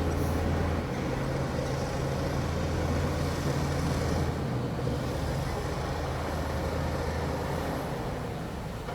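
Heavy diesel engine of an earthmoving machine running steadily, a low drone that eases slightly about four seconds in.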